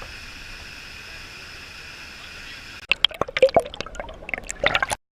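Water splashing and dripping in quick, irregular bursts, starting about three seconds in over a steady background hiss that drops away as they begin; the sound cuts off suddenly near the end.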